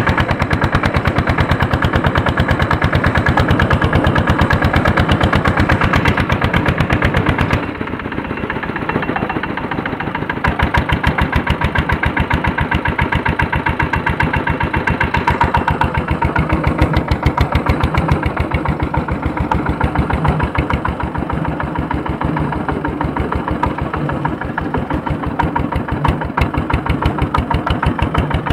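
Single-cylinder Andoria diesel engine of an S-231 tractor running while harrowing, a fast even train of firing knocks. About eight seconds in it drops to a quieter, duller note for a couple of seconds, then picks back up and runs on steadily.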